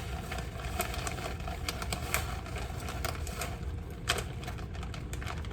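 Irregular light clicks and taps as cheese is handled and added to milk in a measuring jug, over a steady low kitchen hum.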